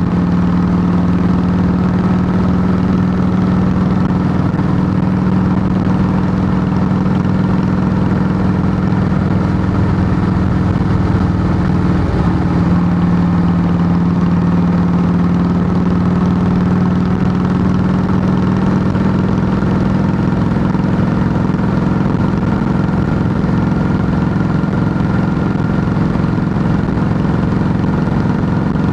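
Harley-Davidson Heritage Softail Classic's Twin Cam 96 V-twin running through Samson fishtail true-dual exhaust pipes. It is a loud, steady exhaust note whose pitch shifts only slightly.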